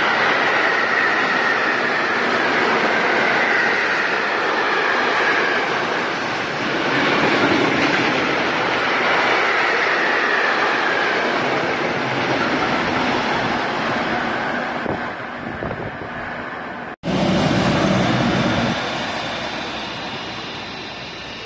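Freight train of tank wagons passing at speed: a steady rumble of wheels on rails with a high wheel squeal through the first half, fading after about 14 seconds. After an abrupt cut, a yellow track maintenance vehicle runs with a lower rumble that fades away.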